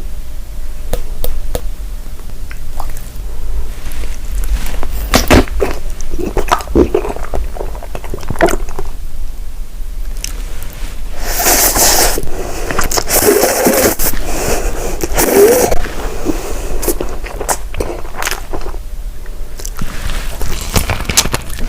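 Close-miked eating sounds: bites and chewing with many sharp clicks and crackles, busiest and loudest for a few seconds about halfway through.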